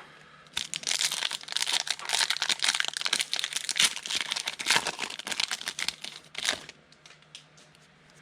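Foil wrapper of a football trading-card pack being torn open and crinkled, a dense crackling for several seconds, with one more short crinkle before it goes quiet.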